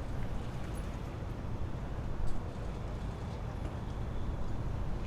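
Steady low outdoor background rumble, with a single brief knock about two seconds in.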